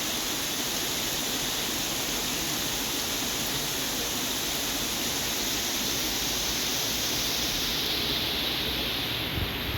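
Heavy rain pouring down in a steady, even hiss, with a couple of low bumps near the end.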